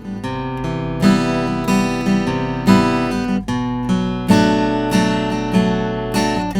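Cat's Eyes CE-25 acoustic guitar with spruce top and mahogany back and sides, strummed in chords. The sound starts suddenly out of silence, with a sharp accented strum roughly every second over ringing chords.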